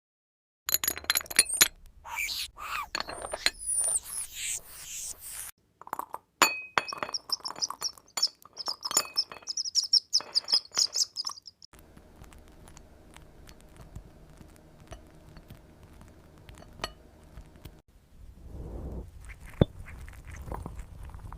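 High chirps and squeaks mixed with sharp clicks and glass clinks, including a fast high trill, then a steady low hum from about twelve seconds in and a low rumble near the end.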